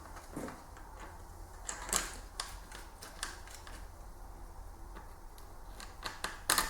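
Irregular light clicks and taps of hand tools and bolts being worked on an engine's valve cover, with a cluster of sharper clicks about two seconds in and another near the end.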